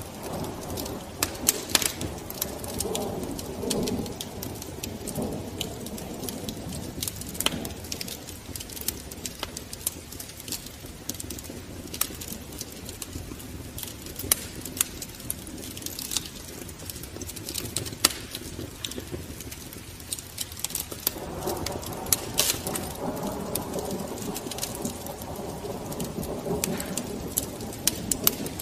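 Wood fire crackling in a fireplace, with irregular sharp pops over a steady low rushing of the flames.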